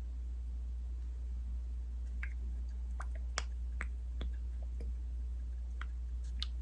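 Scattered small clicks and sticky taps from handling skincare products, clustered in the second half, over a steady low hum.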